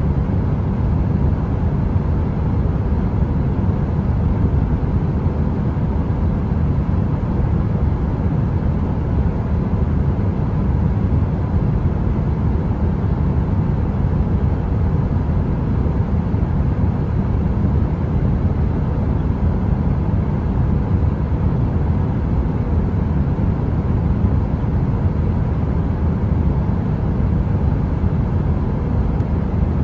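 Steady, deep heater white noise, brown-noise-like, with most of its weight in the low end and no crackles or changes.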